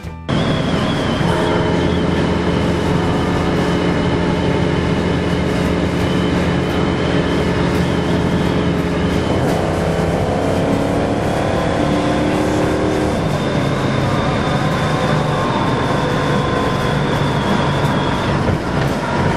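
1965 Ford Mustang's engine, exhaust and road noise heard from inside the cabin while cruising on a highway. About halfway through, the engine note climbs for a few seconds as the car speeds up, then levels off.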